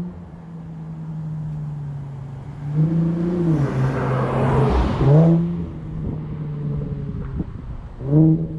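Infiniti Q50's twin-turbo 3.0 V6 with a muffler delete, idling and revved in neutral. There is a short blip about three seconds in, then a harder rev, the loudest moment, peaking about five seconds in with a rush of hiss, and another quick blip near the end.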